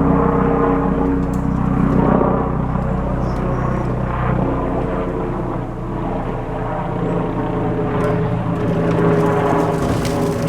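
An engine running steadily, its pitch shifting slightly partway through.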